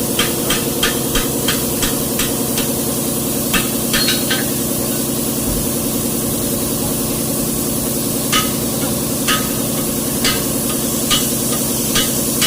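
Truck diesel engine running steadily, with repeated sharp taps over it. The taps come about three a second at first, then fall to roughly one a second near the end.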